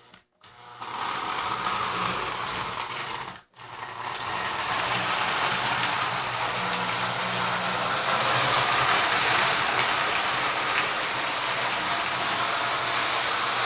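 Marx 1666 toy train locomotive running steadily around the track, its electric motor humming under the rush of wheels on rails. The sound cuts out briefly about three seconds in, then carries on.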